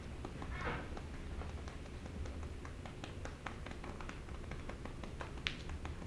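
Quick, light taps and clicks of a hand patting a cat's rump, with one sharper click about five and a half seconds in.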